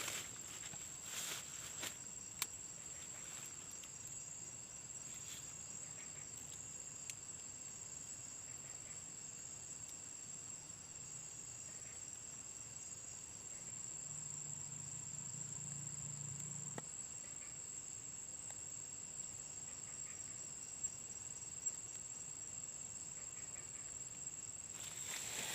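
Insects, likely crickets, chirring in a steady high-pitched chorus. A faint low hum rises about two-thirds of the way through and cuts off with a click.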